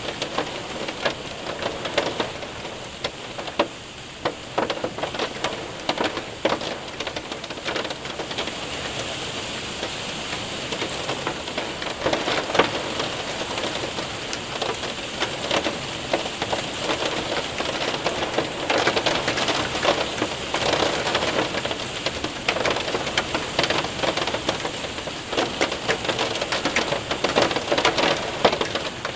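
Rain and hail hitting a window and roof: a steady hiss of rain dotted with many sharp ticks of hailstones striking.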